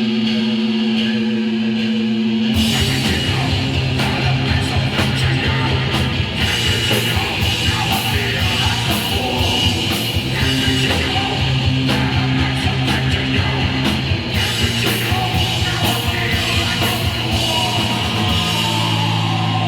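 Hardcore punk band playing live: distorted electric guitar, bass and drums, with shouted vocals. A held note rings for about two seconds before the full band crashes in, and the playing stops just before the end, leaving the guitar and bass ringing.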